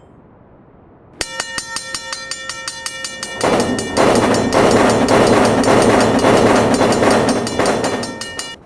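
Railroad crossing warning bell ringing with fast, even strikes, starting about a second in. Midway a train passes over the crossing, a loud rumble and rail noise under the bell. Both cut off suddenly near the end.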